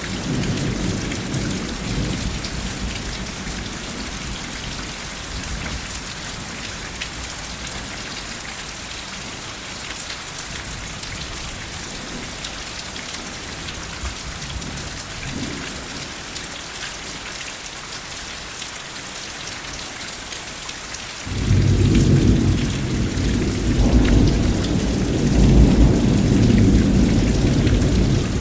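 Steady rainfall with rolling thunder. A rumble fades in the first few seconds, the rain goes on alone, and a loud, deep roll of thunder breaks in about three-quarters of the way through and rumbles on to the end.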